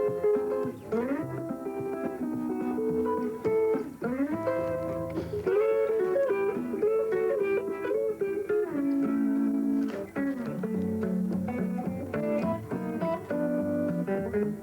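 Guitar playing an instrumental tune in thumbpicking style: a thumbed bass line under a picked melody, with several notes slid or bent up in pitch.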